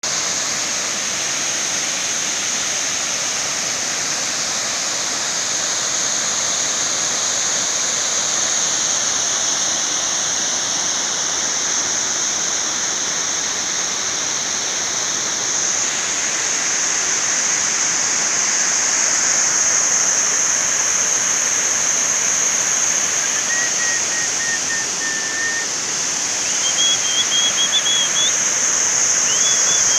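Steady rush of Bogatha waterfall's falling water. Near the end a thin, wavering high tone sounds a few times over it.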